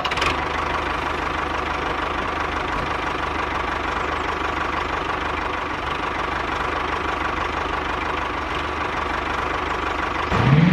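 Small motor of a DIY model machine running steadily, with a faint steady whine on top.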